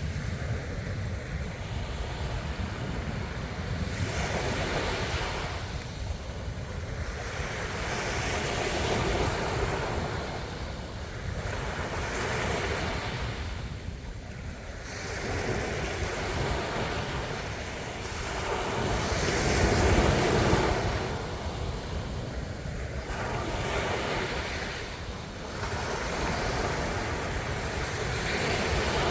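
Ocean waves washing in on the shore, surging and ebbing about every three seconds, with the biggest surge about two-thirds of the way through and a steady low rumble beneath.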